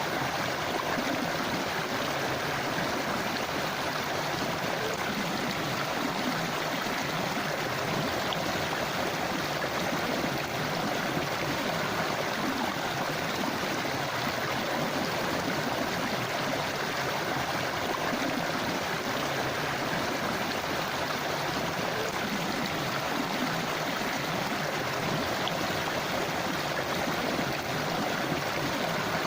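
A shallow forest river or stream rushing and gurgling over stones, a steady, unbroken flow.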